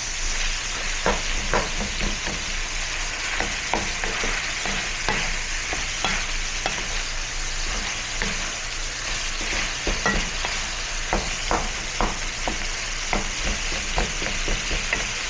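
Food sizzling in a frying pan while being stirred, with a utensil knocking and scraping against the pan at irregular intervals.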